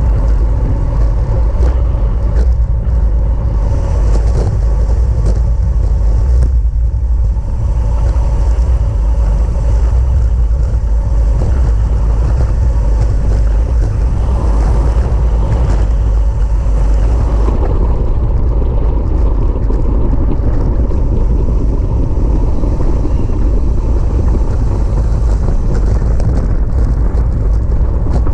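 Wind rushing over the microphone of a camera riding on a racing bicycle at speed: a loud, steady rumble with no breaks.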